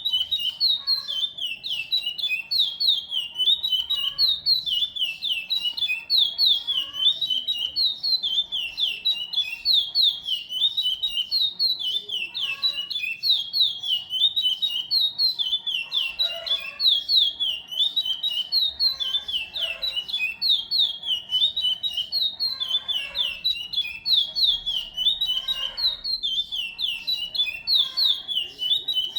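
A songbird singing a long, unbroken song: a fast run of short, high, falling whistled notes. A fainter, lower call repeats every few seconds beneath it.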